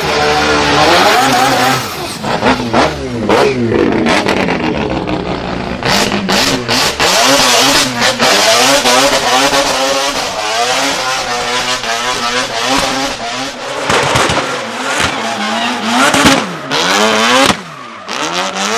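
Drift car engine revving hard, its pitch rising and falling again and again as the throttle is worked, with sharp cracks now and then.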